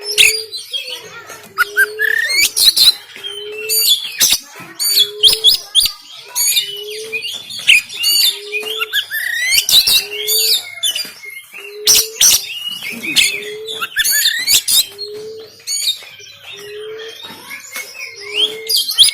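Oriental magpie-robin (kacer) singing a harsh, varied song of rapid whistled glides, rasps and sharp clicks. Under it, a short low note repeats about once a second.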